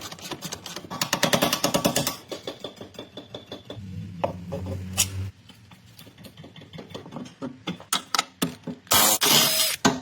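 Rapid rattling clicks from mechanic's tools working on car suspension, coming in bursts. About four seconds in there is a short steady low hum, and near the end a loud hiss.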